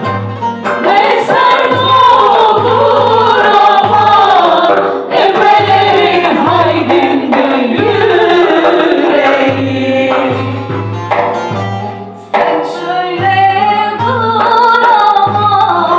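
A Turkish folk music choir singing a türkü together, over a steady, regular drum beat.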